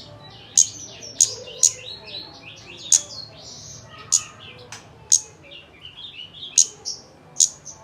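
Kemade bird singing a lure song: sharp, high chip notes about once or twice a second, with softer, lower twittering phrases between them.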